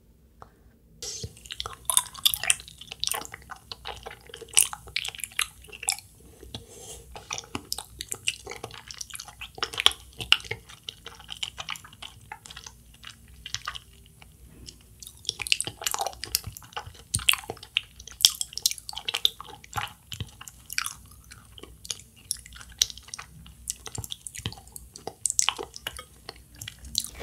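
Close-miked chewing of a soft Kyoho grape jelly ball: wet, squishy mouth smacks and clicks in a dense, irregular run that starts about a second in.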